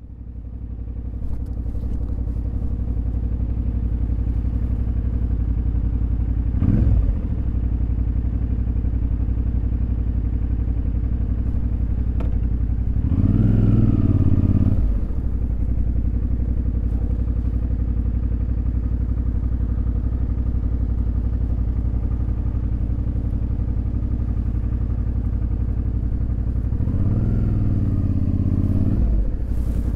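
Suzuki V-Strom DL650's V-twin engine running steadily. It fades in at the start, and the revs rise and fall briefly three times.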